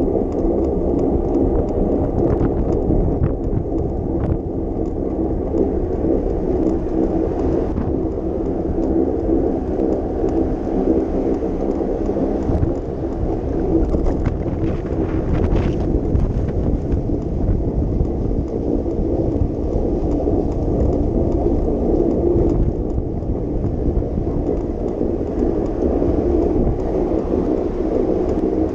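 Steady low rumble of wind on the microphone and road noise while riding a bicycle through city streets, with a few faint clicks.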